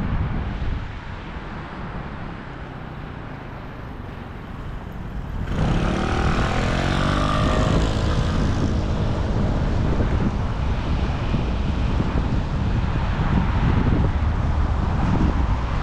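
Wind rushing over an action-camera microphone during a bike ride. About five and a half seconds in, a motor vehicle passes close by and the sound grows louder, with a sweeping rise and fall in pitch.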